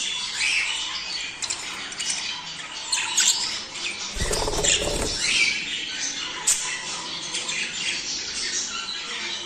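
A flock of budgerigars chattering, with rapid warbling chirps and squawks, the breeding-season chatter used to stimulate budgies to mate. About four seconds in there is a short noisy rustle, like wings flapping.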